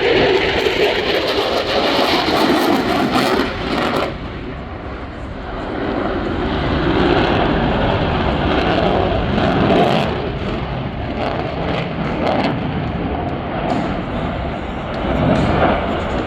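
Aircraft engine noise from a plane flying overhead, a loud, steady rushing sound that eases slightly about four seconds in.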